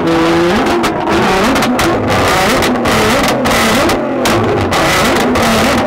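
A modified performance car's exhaust blaring as the engine is revved hard over and over, its pitch climbing and dropping repeatedly, with several brief cut-outs between revs.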